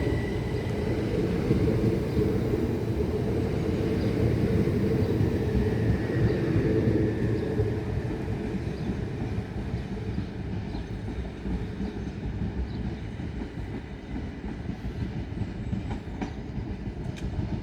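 Class 375 Electrostar electric multiple unit moving on the track: a steady rumble of wheels and running gear that slowly fades over the second half, with a faint high whine that dies away in the first seconds.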